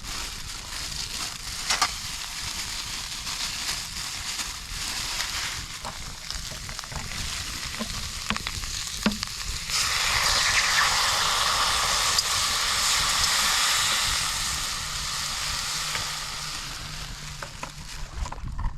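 Steady hiss of rain falling, with scattered light pattering clicks, growing heavier for several seconds about halfway through.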